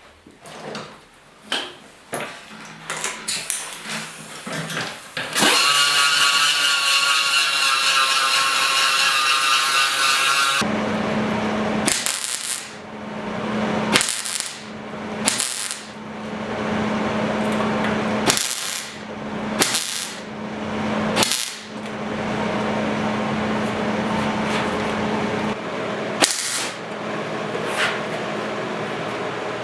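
Power grinder cleaning rust off a steel motorcycle seat pan to prepare it for welding. A few clicks, then about five seconds in the tool starts and runs with a steady whine; about halfway through its sound changes to a steady hum with repeated sharp scrapes as it works on the metal.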